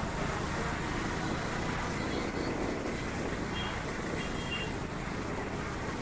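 Steady motor-vehicle and traffic noise: a continuous low rumble with road hiss. A few faint, brief high tones come in around the middle.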